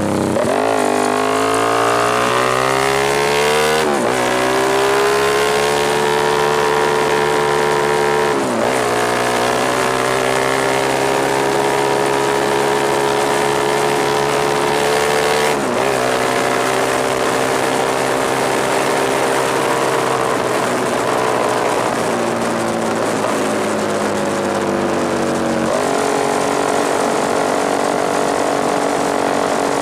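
Suzuki Satria FU injection's single-cylinder four-stroke engine through a Tetenk Muffler PRO-MP racing exhaust. It revs up over the first few seconds and is held at high revs, with brief drops about four, eight and a half and sixteen seconds in and a small step higher near the end.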